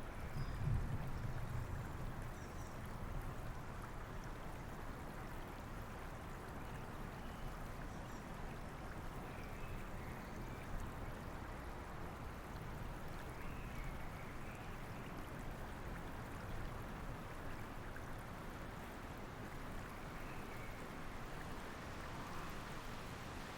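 Steady rushing of a river or stream mixed with falling rain. A low rumble of thunder fades out in the first couple of seconds. A few faint, brief bird chirps sound now and then.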